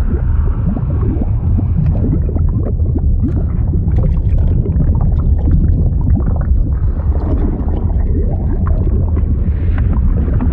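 Liquid bubbling and gurgling: a constant deep rumble with many small, quick bubbling pops above it.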